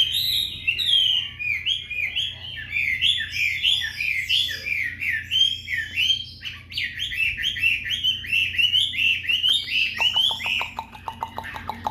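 Chinese hwamei (Garrulax canorus) singing a long, fast, varied song of rising and falling slurred whistles with no pauses. Near the end a quick rattling series of lower notes starts.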